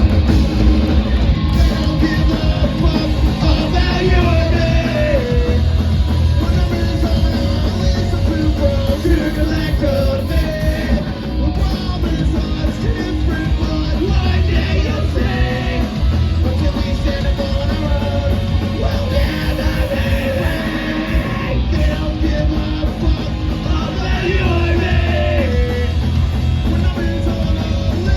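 Punk rock band playing live and loud, with shouted singing over guitars, bass and drums.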